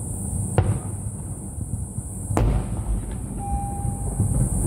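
Aerial firework shells bursting: two sharp bangs about two seconds apart, the second followed by a low rumbling boom, over a steady low rumble.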